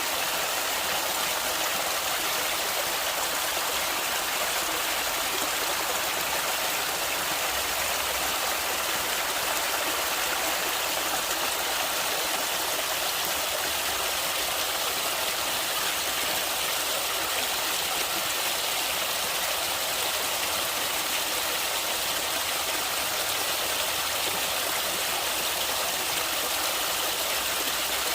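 Flowing stream water rushing steadily, an even hiss that is stronger in the highs than in the lows.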